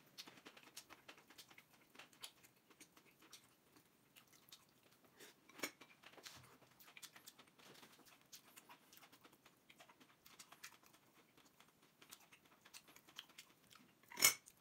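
Close-miked chewing of a mouthful of stewed pickled cabbage and pork: faint, soft, wet mouth clicks scattered through, with a stronger click about halfway through and a sharp, louder click near the end.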